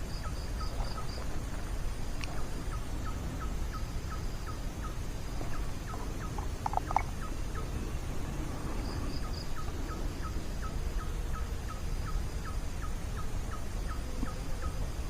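A bird calling a long, regular series of short, clipped notes, about three a second, with brief gaps. Faint runs of high beaded notes come and go behind it.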